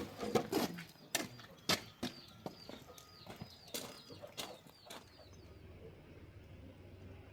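Farmyard birds chirping in quick short repeated calls, mixed with several sharp claps, for about five seconds; then the calls stop and a faint steady low hum remains.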